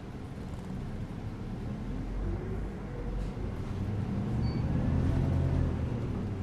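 Bus ride noise: a low engine and road rumble that grows louder from about two seconds in, then eases slightly near the end.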